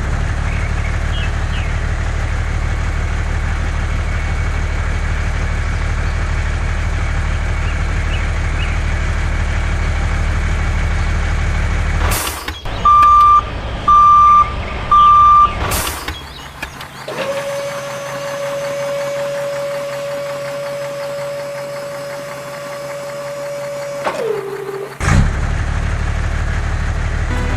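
Heavy vehicle engine running steadily, as of a tractor or truck. It cuts off suddenly for three short evenly spaced beeps like a reversing alarm, then a long steady tone that drops in pitch as it ends, and then the engine comes back.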